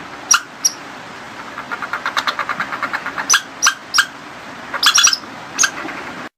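Small animal giving sharp, short chirps, single and in quick pairs, with a fast chattering run of about ten chirps a second near the middle.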